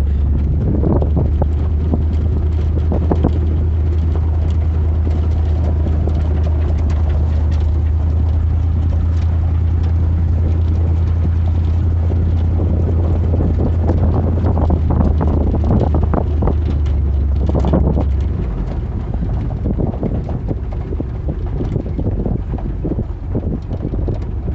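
Truck engine running with a steady low drone, with rattles and knocks over it; the drone drops away about three-quarters of the way through, leaving rattling and wind noise.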